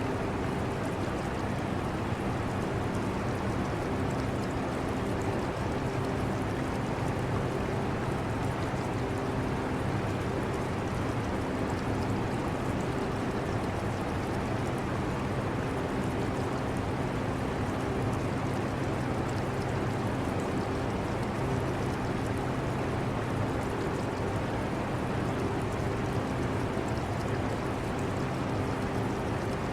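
Steady hum of a portable air conditioner with the trickle of aquarium water mixed in, unchanging throughout, with a faint low drone that comes and goes.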